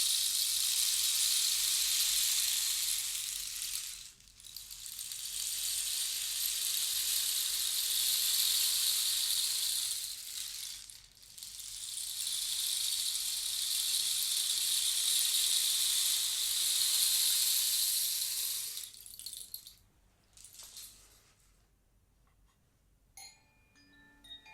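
A handheld rattle-type percussion instrument swept in three long, swelling washes of hiss-like sound, each several seconds long, then a brief shake. Near the end a few soft chime notes begin to ring.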